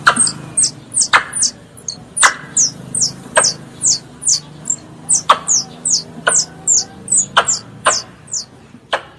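Squirrel calling: a rapid series of short, high-pitched, downward-sliding chirps, about two or three a second, broken by sharp loud clicks roughly once a second.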